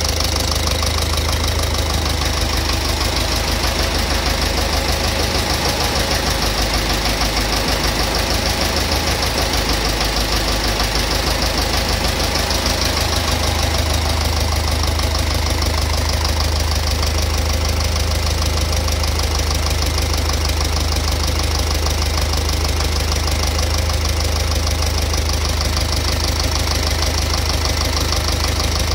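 An engine idling steadily with a knock in it, a fast, even knocking that runs along with the engine beat.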